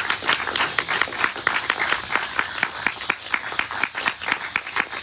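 Small crowd applauding with dense, uneven hand claps that thin out toward the end, over a steady high buzz of insects.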